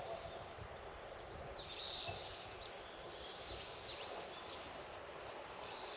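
A bird calling with short arched chirps in little groups of two or three, over a steady outdoor background hiss.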